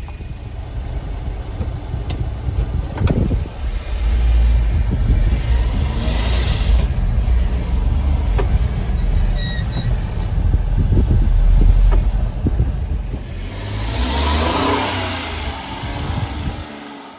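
Honda Acty kei truck's small engine running and revving, a loud low rumble that swells and eases, with a few sharp knocks.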